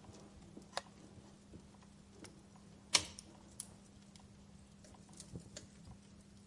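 Wood fire burning in a fireplace, crackling with scattered sharp pops over a soft hiss; one loud pop about three seconds in, a few smaller snaps after it.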